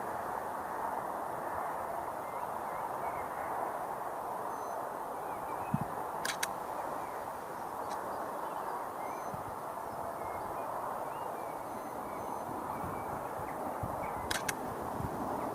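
Steady outdoor rushing noise with faint bird chirps, and two sharp clicks, one about six seconds in and one near the end.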